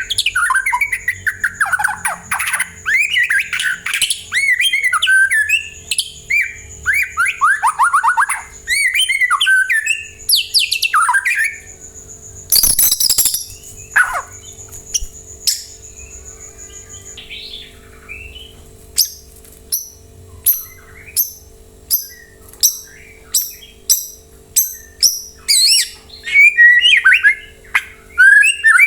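White-rumped shama (murai batu) singing a long, varied song of quick whistled phrases. A little over halfway through comes a harsh rasping note, followed by a run of short sharp notes at about two a second before full whistling resumes near the end.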